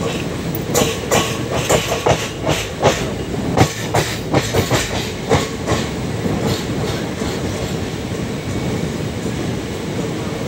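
Passenger express train running on the rails: a steady rumble with a quick, irregular run of sharp wheel clicks over track joints for the first half, then smooth running.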